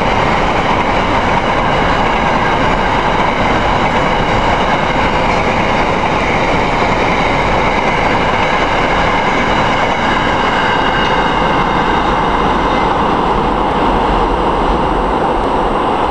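A long rake of coal hopper wagons, returning empty, rolling past on the rails: a steady, loud rumble and clatter of wheels on track with several steady high tones over it, easing a little near the end as the last wagons draw away.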